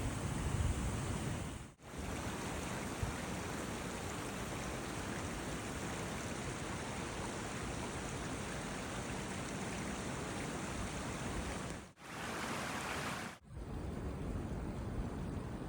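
Blizzard wind blowing across the microphone: a dense, even rushing with a low rumble. It drops out abruptly for an instant about two seconds in, and again twice late on, around a brighter stretch of about a second and a half.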